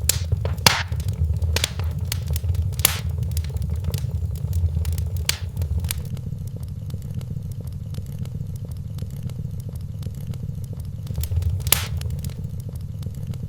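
Wood fire crackling in a fireplace over a steady low rumble, with sharp pops that come thickly for the first several seconds, thin out, and return with a louder one near the end.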